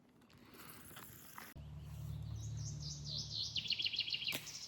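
A quiet first second and a half, then a low steady hum sets in suddenly. Over it a small bird sings a quick run of high, warbling chirps for about two seconds.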